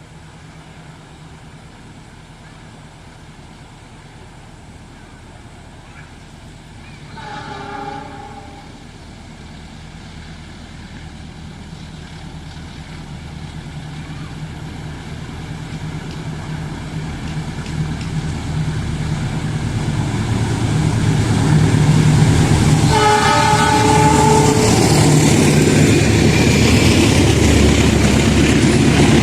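Indonesian diesel-electric locomotive approaching, its engine hum growing steadily louder over about fifteen seconds. It sounds a short, distant horn blast about seven seconds in and a longer, louder multi-tone horn blast about twenty-three seconds in.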